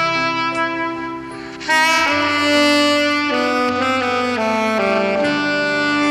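Solo alto saxophone playing a slow melody of long held notes, with no accompaniment.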